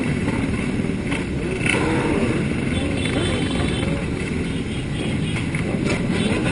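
Several motorcycle engines running together, revved up and down again and again in a dense, steady din.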